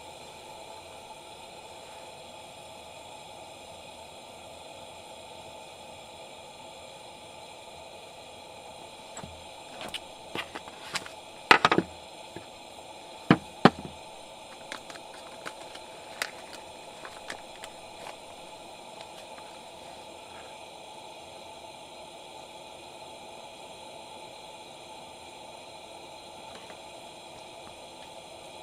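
Campfire crackling over a steady background hiss, with a burst of sharp pops and snaps about ten to seventeen seconds in, the loudest two pops a couple of seconds apart.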